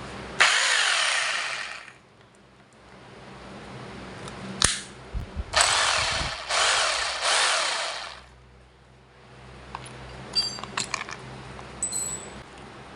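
MAL 26 mm rotary hammer's electric motor run in trigger bursts: one burst of over a second near the start, then three short bursts in quick succession a few seconds later, the whine rising and falling as the motor spins up and winds down. Sharp clicks come between the bursts.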